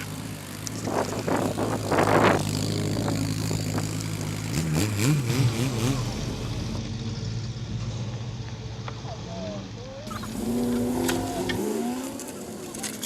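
A car engine running at low revs through its exhaust, with a couple of short louder blips about a second or two in and a change in its note about four and a half seconds in. People talk in the background near the end.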